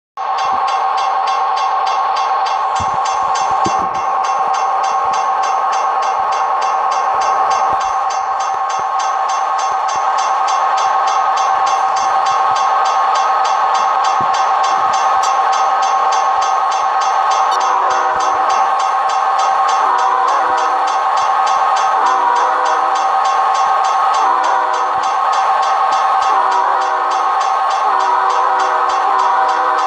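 Diesel locomotive air horn holding one long multi-note chord without a break. About halfway through, a lower tone starts pulsing on and off under it.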